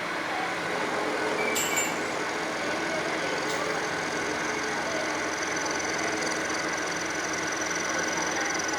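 Steel-working machinery in a small factory, running steadily with a mix of hum and noise. About a second and a half in comes a brief high metallic ring, and a sharp click follows near the middle.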